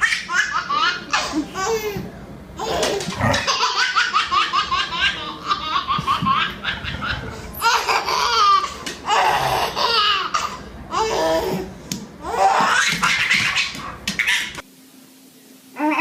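Hearty, high-pitched laughter in repeated bouts of rapid pulses with short breaks between them. It stops abruptly near the end.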